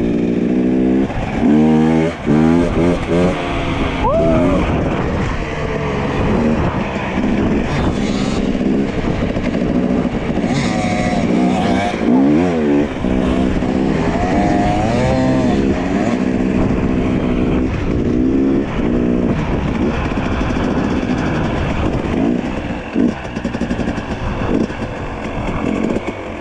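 Dirt bike engine running hard under load, its pitch rising and falling again and again as the throttle is opened and shut, with a couple of sharp drops and climbs in revs.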